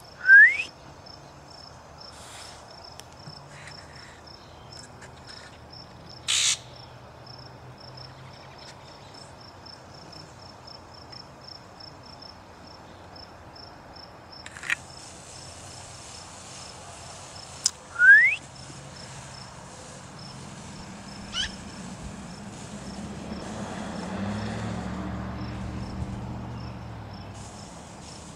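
A bird gives two loud, short, rising whistled calls, one near the start and one about two-thirds through, with a few fainter chirps between, over a steady pulsing insect trill. A brief sharp noise comes about six seconds in, and a low rumble swells and fades near the end.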